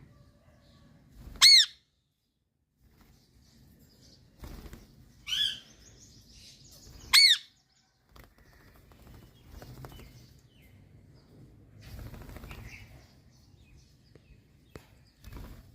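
Indian ringneck parrot giving two loud, short calls about six seconds apart, each rising and falling in pitch, with a softer call between them and faint low rustling.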